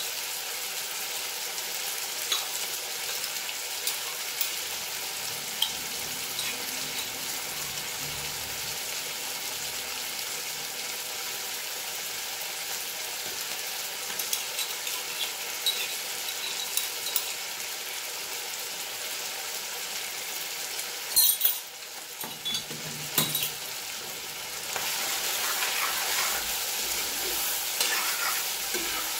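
Chicken pieces and sliced onions sizzling in hot oil in a cast-iron kadai, a steady hiss with scattered crackles. A couple of sharp knocks come about two-thirds through, and near the end a spatula stirs and scrapes the food in the pan, making the sizzle louder.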